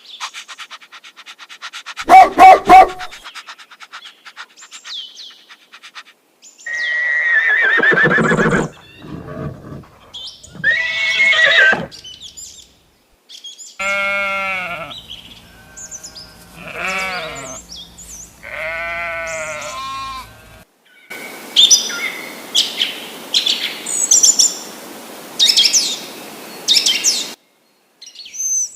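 Goats bleating in several separate bursts, the longer calls quavering, with other short animal calls between them. Near the end, high chirps sound over a steady hiss.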